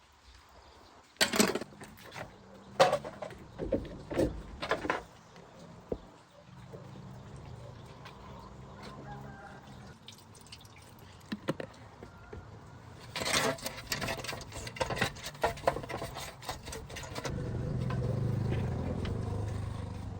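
Knocks and clatter of hard objects being handled, in two bursts. Between them a low, steady hum sets in, and it swells louder near the end.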